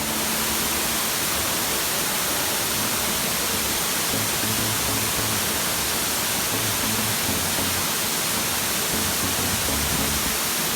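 Steady roar of a waterfall, with low notes of background music underneath.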